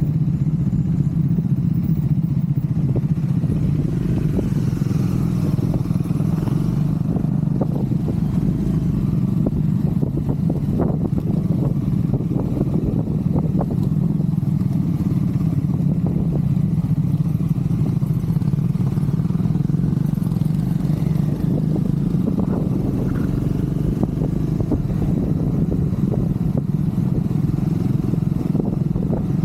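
Triumph Scrambler 400 X's single-cylinder engine running steadily while riding, with frequent short knocks and rattles mixed in.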